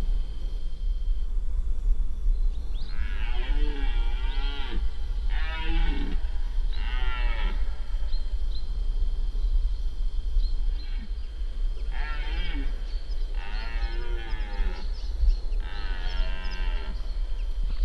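Red deer stag roaring in the rut: two bouts of three deep, drawn-out roars a few seconds apart, over a steady low rumble.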